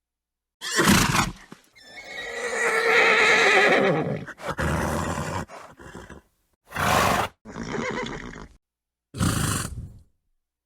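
A horse gives a short snort, then a long wavering whinny of about two seconds that trails off. Three more short snorts follow, separated by dead silence.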